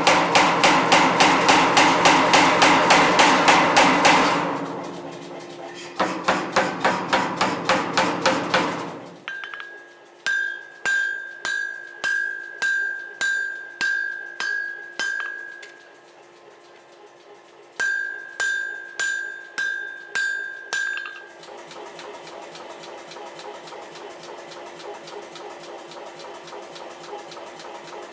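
Hammer blows forging steel for a cleaver blade. Two runs of quick blows, about four a second, give way to slower blows, about two a second, each with a clear ring. A steady faint hiss follows near the end.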